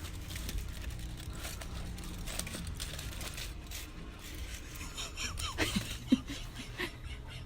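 Wood campfire crackling with small irregular pops over a steady low hum, and a brief voice-like sound falling in pitch about six seconds in.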